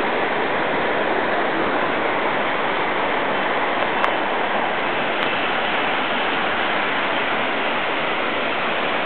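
Heavy rain falling, a steady even hiss, with a faint click about four seconds in.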